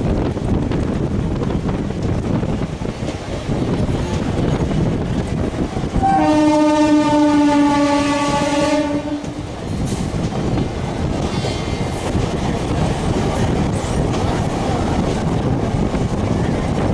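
Train running on the rails with a steady rumble, and a train horn sounding one long blast of about three seconds starting about six seconds in, the loudest sound in the stretch; a much fainter horn-like tone follows briefly a few seconds later.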